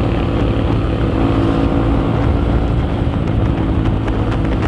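Honda CRF150L's single-cylinder engine running through an aftermarket exhaust, cruising at a steady speed.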